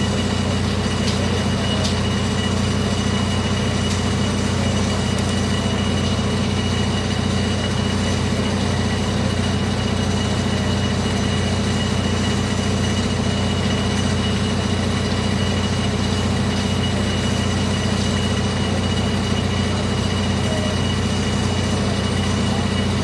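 Steady mechanical drone with a deep hum and a thin constant high whine, unchanging throughout.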